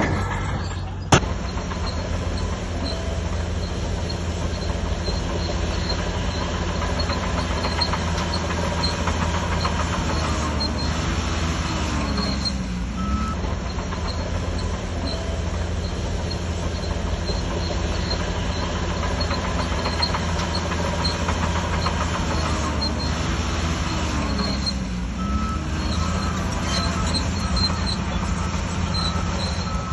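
Heavy diesel engine of a Shantui DH17C3 crawler bulldozer running steadily under load, its pitch dipping and recovering twice, around the middle and again near the end. A single sharp knock about a second in.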